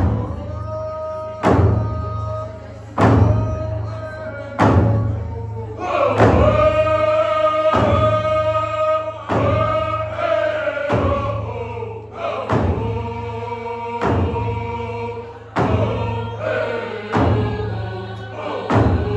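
Group of voices singing a Native song together over a drum struck in a slow steady beat, about one stroke every second and a half. The singing grows fuller about six seconds in.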